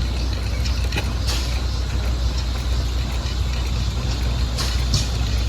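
Stationary gas engine running steadily with a low rumble, with a few sharp clicks about a second in and again near the end.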